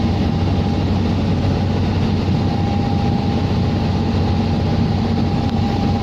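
An engine running steadily: a continuous low hum under a loud, even rush of noise.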